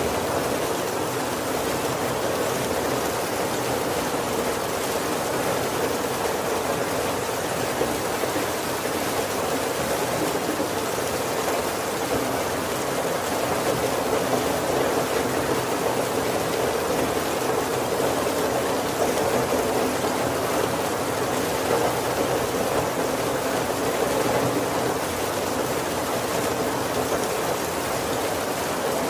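Steady heavy rain falling on the roof and windows of a wooden carriage, heard from inside: an even, unbroken hiss with no thunder.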